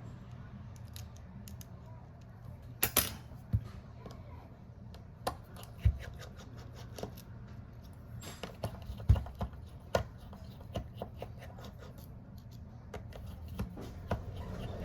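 Irregular sharp clicks and taps of small hand tools and phone parts being handled on a workbench, over a steady low hum.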